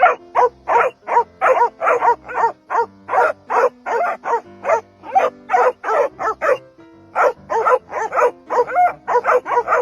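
A dog barking rapidly and without letting up, about three sharp barks a second.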